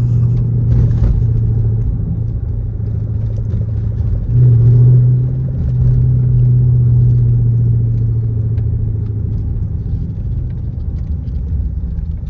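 Straight-piped Dodge Charger R/T's 5.7 HEMI V8 exhaust droning steadily while driving, one steady low tone. It grows louder about four seconds in, as if on throttle, and eases off over the last few seconds.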